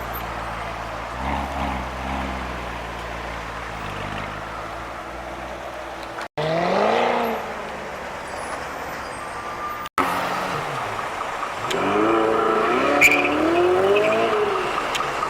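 Supercar engines in three short clips joined by abrupt cuts. First a low idle with light blips, then a quick rev that rises and falls, then several hard revs and accelerations climbing and dropping in pitch, with a single sharp crack partway through the last clip.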